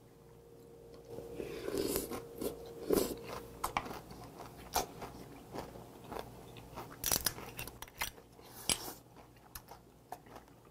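Close-miked chewing of a mouthful of cold doenjang mulhoe, raw damselfish slices with crisp raw vegetables, giving a run of sharp, irregular crunches. The crunching starts about a second and a half in and dies away near the end.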